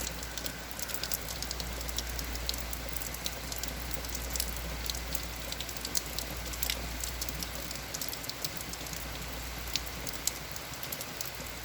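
Heavy rain falling steadily, with many small drop ticks and a steady low rumble.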